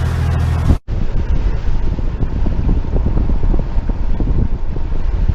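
Wind buffeting the microphone in a loud, gusty low rumble. It follows a brief steady boat-engine drone that cuts off abruptly just under a second in.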